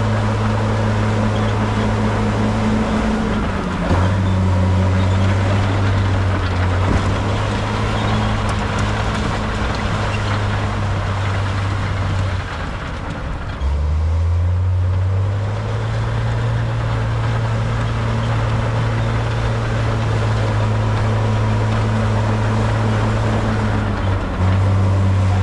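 Heavy construction machine's diesel engine running with a steady low drone, its pitch stepping up and down several times as the throttle changes, with a brief drop about thirteen seconds in before it climbs again.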